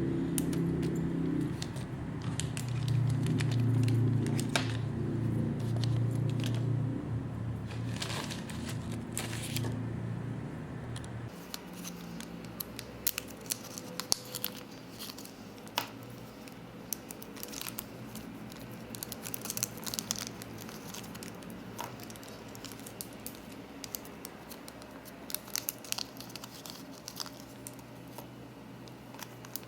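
Packaging being handled while packing orders: crinkling plastic and paper, tearing, and many short sharp clicks and snips. A low steady rumble runs under it and stops about eleven seconds in.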